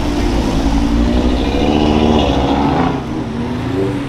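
A performance car's engine revving hard as it accelerates, its pitch climbing and dropping several times with the gear changes. The sound gets quieter about three seconds in.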